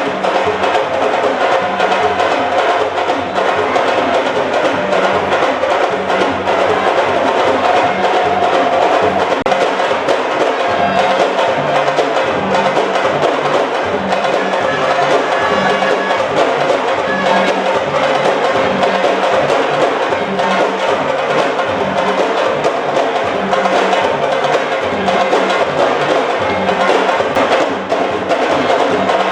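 Drumming with a steady, fast beat over a dense, continuous wash of sound.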